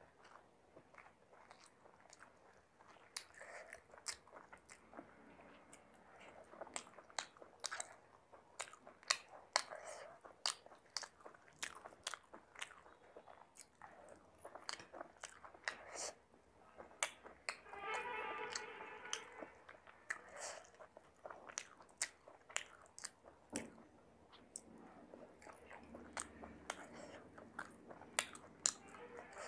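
Close-miked mouth sounds of a person eating chicken biryani by hand: wet chewing and lip-smacking, with sharp mouth clicks coming several times a second.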